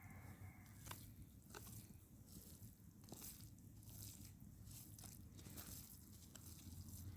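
Near silence with faint, scattered crunches and clicks.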